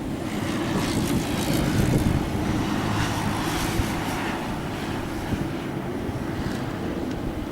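Boeing 787 Dreamliner airliner's jet engines, heard as a steady low rumble that swells slightly in the first couple of seconds, with wind noise on the microphone.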